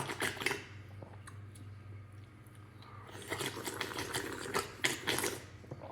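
A person slurping and lapping water from a pet drinking fountain in two bursts of wet clicks, one right at the start and a longer one from about three to five and a half seconds in, over a steady low hum.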